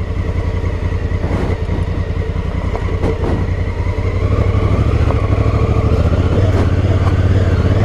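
2018 Honda Africa Twin's parallel-twin engine running while the bike is ridden, the revs rising a little about four seconds in and then holding steady.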